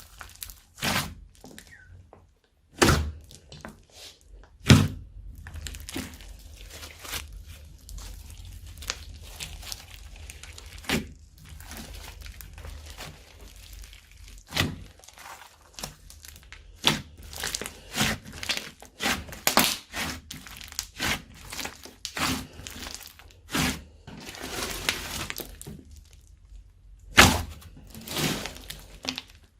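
Slime being squished and mixed by hand: a continual run of irregular sticky pops, clicks and crackles, a few of them much louder than the rest.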